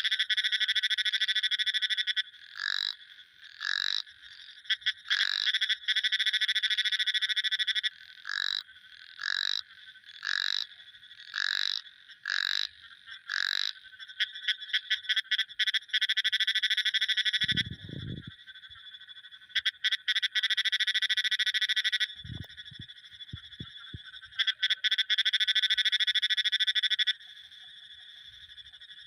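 Frogs calling: long, rapid trills alternate with short single high notes about one a second. There is a low thump about 18 seconds in and a few low knocks a little later.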